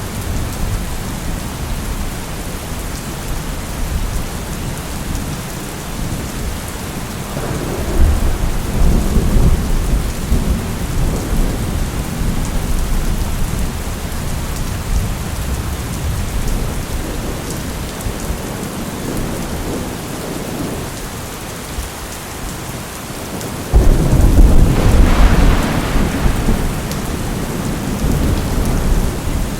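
Steady heavy rain with rolling thunder. A rumble builds about a quarter of the way in, and a louder, sharper thunderclap breaks near the end and rumbles away over several seconds.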